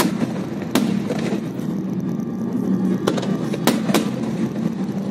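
Aerial fireworks display: about five sharp bangs of bursting shells, two in quick succession near the end, over a steady background noise of the ongoing barrage.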